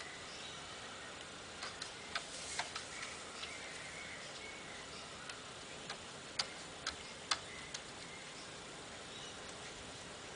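A dozen or so sharp, irregular clicks and taps over a steady faint hiss, in two loose clusters: one a couple of seconds in and another past the middle.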